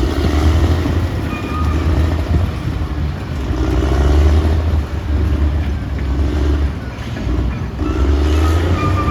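Caterpillar D6R XL bulldozer's diesel engine working under load, its low note swelling and easing every second or two, with a faint high whine at times.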